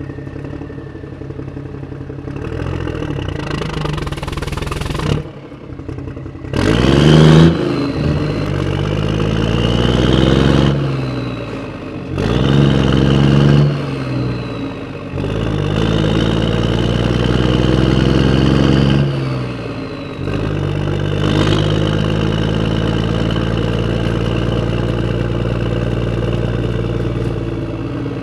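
An engine running and being revved several times, its pitch rising and falling, then settling to a steady run for the second half.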